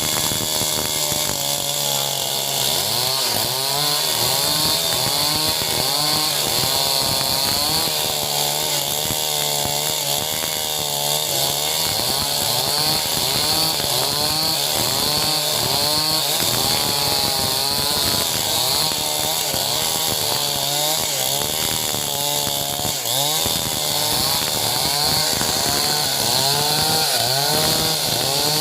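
Two-stroke chainsaw running hard while cutting timber into beams, its engine pitch dipping and recovering over and over as the chain bites into the wood.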